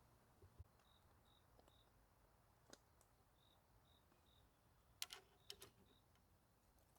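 Near silence with a cricket chirping faintly, short high chirps in groups of two or three. A few light clicks about five seconds in are the loudest sound.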